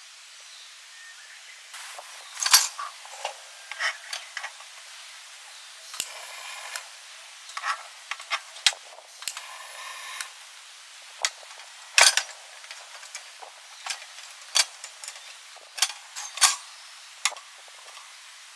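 Irregular sharp clicks, taps and knocks of objects being handled, with two stretches of rustling between them.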